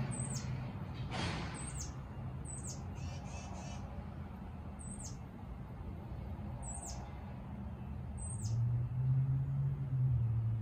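Songbird calls: about six short, high notes, each sliding downward, spaced unevenly, with a harsher, noisier call about a second in. A low drone grows louder near the end.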